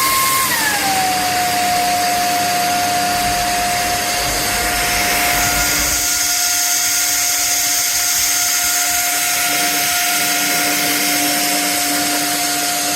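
A cordless stick vacuum cleaner running with a steady motor whine and airflow hiss. About half a second in, the whine drops in pitch as the motor slows, then it settles and runs steadily at the lower speed.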